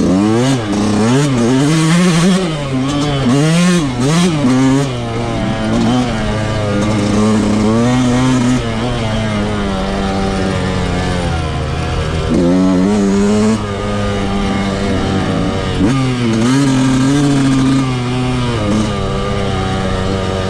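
Motocross dirt bike engine with a stock exhaust, ridden hard: the revs rise and fall quickly over and over in the first few seconds, hold steadier through the middle, then climb again twice near the end.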